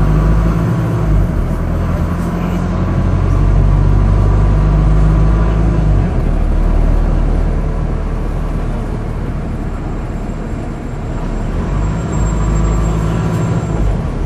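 Wright StreetDeck double-decker bus's Mercedes-Benz OM934 four-cylinder diesel engine running under way. Its note is strong for about the first six seconds, eases off, then builds again near the end.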